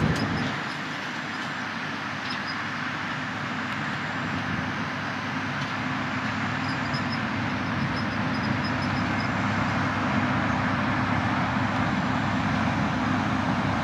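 Sugarcane train of loaded cane bins rolling past on the rails: a steady, even rolling rumble with no break, which goes on as the last bin moves away.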